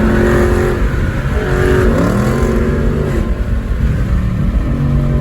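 Dodge Charger Scat Pack's 392 V8 running under way, its pitch climbing about two seconds in as it accelerates, then settling back to a steady drone.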